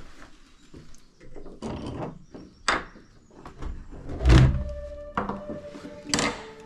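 Clunks and knocks of an old church door and its latch being worked, with a heavy thud about four seconds in, followed by a short steady tone.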